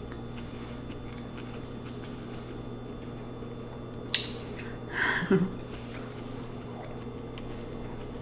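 Eating lo mein close to the microphone: a sharp click about four seconds in, then a short wet chewing and slurping sound a second later, over a steady low hum.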